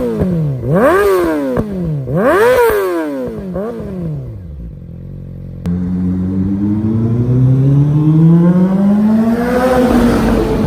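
Yamaha R6 inline-four through an Akrapovic full exhaust, revved in quick, sharp throttle blips, about one every second and a half, the last one smaller, before it drops back to idle. After an abrupt cut, the revs climb in one long steady pull and fall away near the end.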